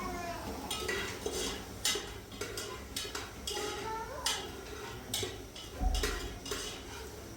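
Clinking and clattering of dishes and cutlery: a quick, irregular series of sharp knocks.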